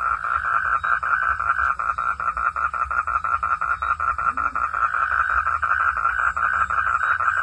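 Frogs calling in a steady chorus, a fast, even train of pulsed notes several times a second, over a low rumble.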